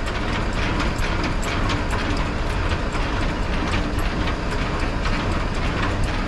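Semi-truck running with a steady low diesel rumble and frequent irregular rattling clicks.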